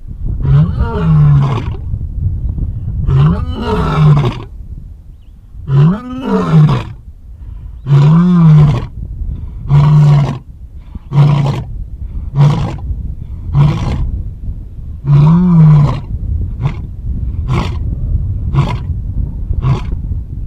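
Lion roaring bout: three long roars that rise and fall in pitch, followed by a run of shorter grunting calls about a second apart that grow shorter toward the end, over a low steady rumble.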